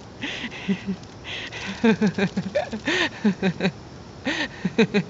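A live cicada giving short, harsh buzzing bursts, about five of them, as it is handled. A person chuckles over it.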